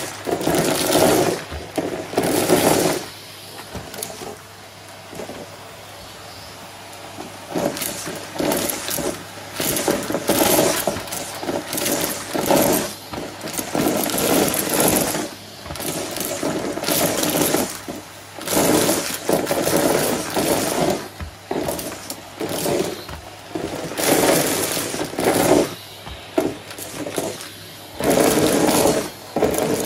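Hetty cylinder vacuum cleaner running with a steady hum, while debris rattles and crunches up the hose in irregular bursts, each about a second long.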